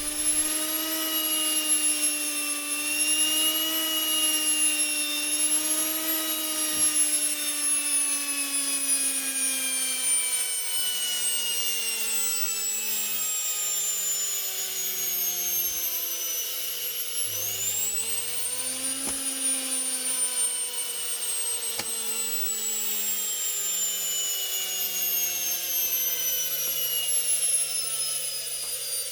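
Universal (brushed) washing machine motor running on a speed controller, a steady whine. Its pitch falls slowly as the speed is turned down, rises sharply back up a little past halfway, then falls slowly again.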